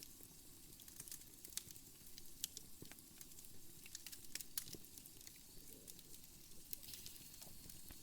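Wood fire crackling softly in a fireplace: irregular sharp pops and snaps over a low, steady rumble of the flames.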